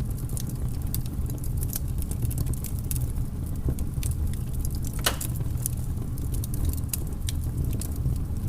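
Wood fire in a fireplace crackling: irregular sharp pops and snaps over a steady low rumble, with one louder pop about five seconds in.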